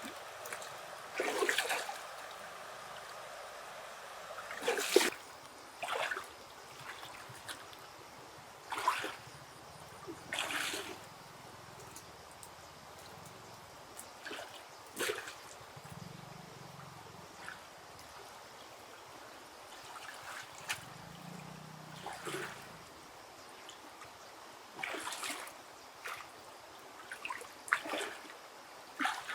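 Water splashing and trickling in short, irregular spurts, one every second or few, over a steady faint hiss.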